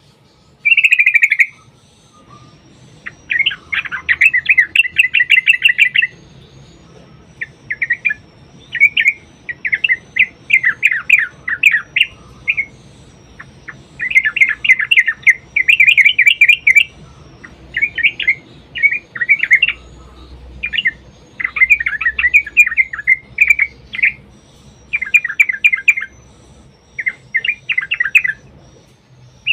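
Yellow-vented bulbul (trucukan) singing a lively, fast-rolled song. It comes in repeated bursts of rapid bubbling chatter, each a second or two long, with short pauses between.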